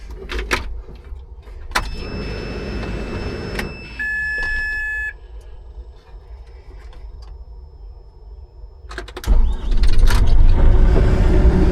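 JCB 55Z mini excavator being started: a steady electronic warning beep sounds for about a second at key-on, then after a pause the diesel engine cranks and catches about nine seconds in and keeps running. A few knocks come before the beep.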